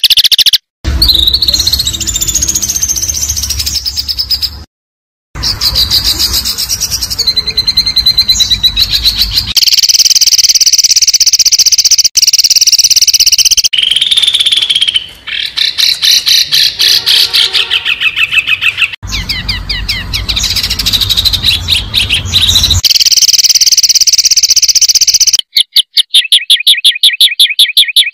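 A spliced sequence of loud, sharp songbird calls of the kind used as a master track for training white-rumped shamas and contest birds: high chirps, whistles and trills that change every few seconds, with two brief silent cuts near the start. Near the end comes a fast, even run of sharp repeated notes, about seven a second.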